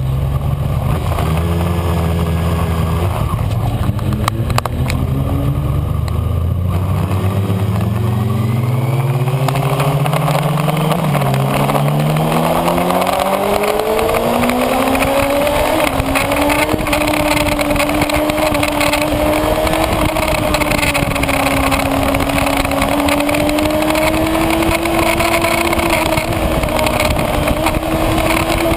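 Kawasaki Ninja ZX-6R's inline-four engine heard from on board: at low revs for the first few seconds, then climbing steadily in pitch as the bike accelerates, with a brief drop about eleven seconds in, and held at high revs with a slight rise and fall through the second half, over a steady rush of wind noise.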